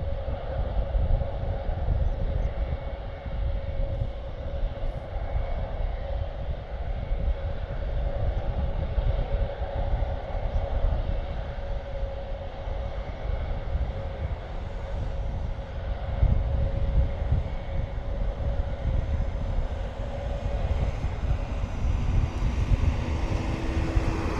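A farm tractor's engine running close by, a heavy rumble louder than the Airbus A400M's four turboprop engines as the aircraft taxis further off. A steady hum runs through the rumble and fades near the end.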